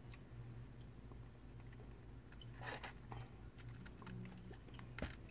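Quiet chewing of crispy fried fish, with scattered small clicks and a sharper click about five seconds in.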